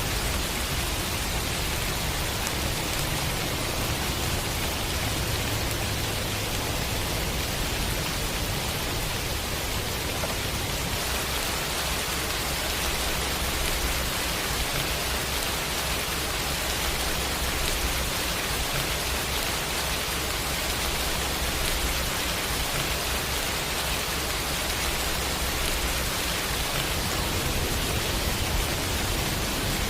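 Steady heavy rain, an even hiss, with a low rumble underneath that swells and fades.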